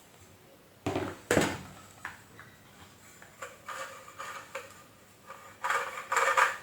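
Vacuum cleaner motor parts being handled on the bench: two sharp metal knocks about a second in, a few light clicks, then a ringing metallic rattle near the end.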